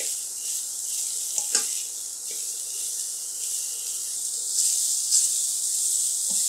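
Julienned carrots sizzling in olive oil in a stainless steel wok, stirred with a slotted spatula that scrapes and taps against the pan a few times.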